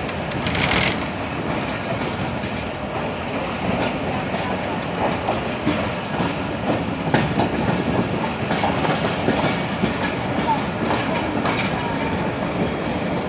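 Train running on the rails as it enters a station, heard from on board: a steady rumble with wheels clicking irregularly over rail joints.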